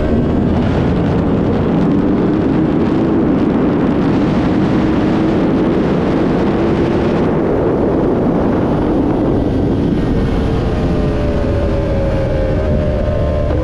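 Inline-four sportbike engine pulling along at road speed, with heavy wind rushing over the microphone; in the last few seconds the engine note slowly rises as the bike accelerates.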